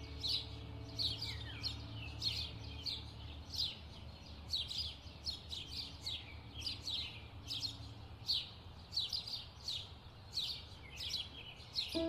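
Small birds chirping continuously: quick high chirps that drop in pitch, several a second. The last faint notes of soft instrumental music die away in the first few seconds.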